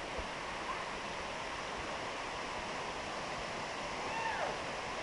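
Waterfall rushing steadily in the forest, a continuous even roar of falling water. A few faint short chirping calls come in about four seconds in.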